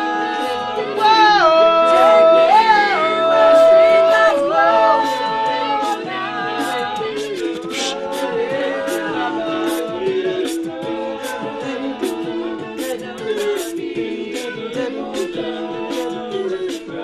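Men's a cappella group singing a pop song: a lead voice holds long notes that bend between pitches over sustained backing harmonies, and from about six seconds in a steady, crisp beat of vocal percussion drives the song.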